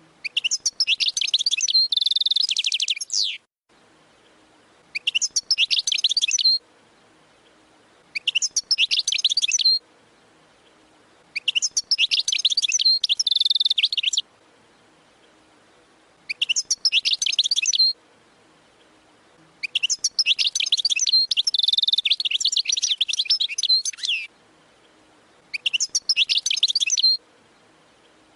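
European goldfinch singing in the Waddani song style: seven phrases of rapid, twittering high notes, each a few seconds long and separated by short pauses.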